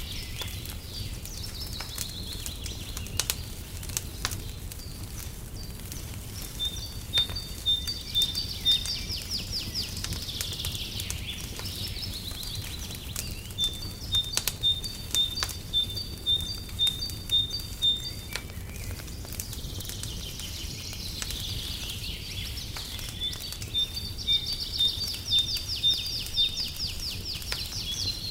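Fireplace crackling, with scattered sharp pops over a steady low rumble. Over it, birdsong comes and goes: runs of quick high chirps and rippling trills, several times over.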